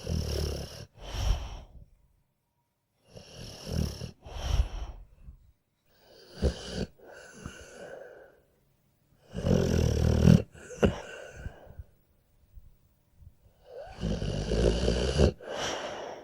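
Dog snoring in deep sleep: five snoring breaths come about three to four seconds apart, with short silences between them.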